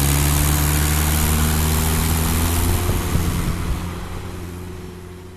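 Mahindra 575 DI tractor's diesel engine running steadily, its pitch creeping up slightly, then fading away over the last two seconds.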